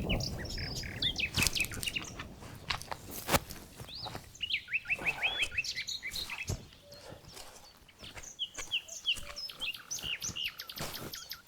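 Songbirds chirping and singing, with a quick trill of repeated high notes around the middle. Scattered sharp clicks and knocks, the loudest about a second and about three seconds in, come through between the calls.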